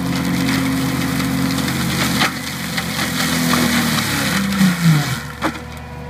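Bobcat T770 skid steer's diesel engine running under load while its AHWI forestry mulcher drum grinds through wood, with a few sharp cracks of splintering. The pitch falls near the end as the load comes off.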